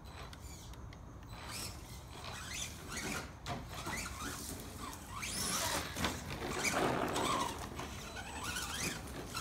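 Hobbywing brushless motor of a 1/10 RC monster truck whining up and down in pitch as the throttle is worked, with tyre and drivetrain noise that swells about seven seconds in.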